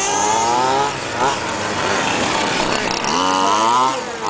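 Small two-stroke petrol engines of 1:5-scale radio-controlled trucks revving up and down as they run, their pitch rising and falling and overlapping. One engine climbs steeply about three seconds in, then drops off near the end.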